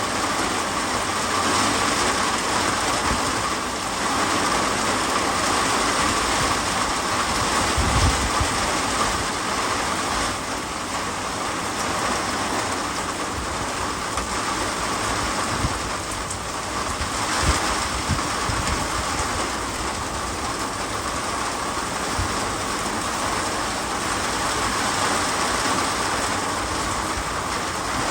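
Heavy rain falling in a strong wind storm, a steady hiss with a few low buffets of wind on the microphone, the loudest about a third of the way in and again past the middle.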